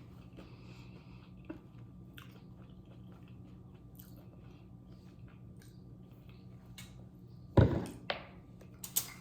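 Close-miked chewing and mouth sounds of someone eating, with small wet clicks throughout. A loud sudden thump or crunch comes near the end, followed by a smaller one and a few sharp clicks.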